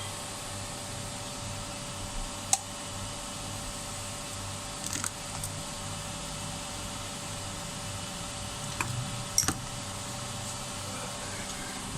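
A few sharp metallic clicks and taps of hand tools on an engine's valve gear during a valve clearance adjustment, over a steady faint hiss.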